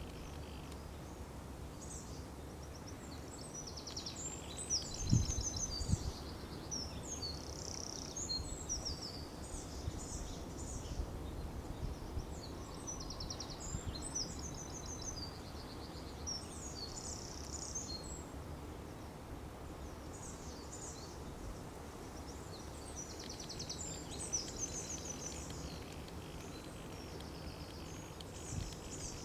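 Wild songbirds singing outdoors in high, quick trilled phrases that come and go, over a steady low rumble. Two low thumps about five and six seconds in.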